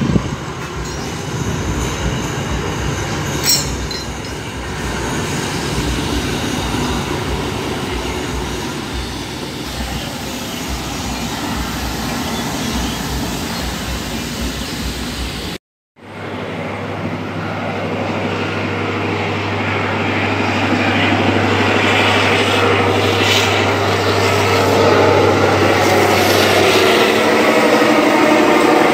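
A train running on the rails, heard from aboard: a steady rumble and rattle of wheels on track. After a brief cut, a steady low hum, typical of a diesel train's engines, runs beneath louder, building mechanical noise and stops shortly before the end.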